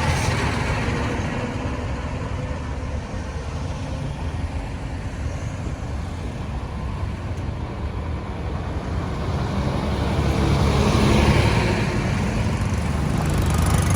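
Road traffic noise from passing vehicles' engines and tyres, swelling as a vehicle passes close about ten seconds in.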